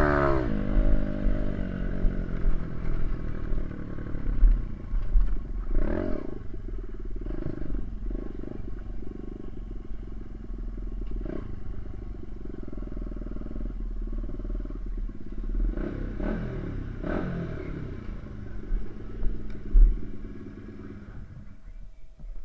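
Small dirt bike engine running while being ridden, with a low wind rumble on the microphone. It revs up and back down briefly a few times, and the engine sound falls away near the end.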